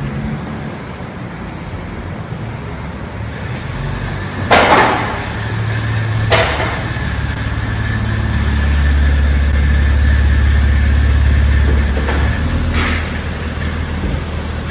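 Car engine running with a steady low rumble that swells for a few seconds in the second half, as when driving slowly or pulling in. A few short, sharp noisy bursts stand out over it, the loudest about four and a half seconds in.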